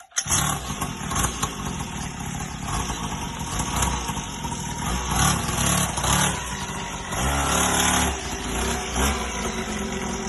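The small 50cc pull-start engine of a Mototec mini dirt bike catches and starts about a quarter second in, then keeps running, its revs rising and falling a few times.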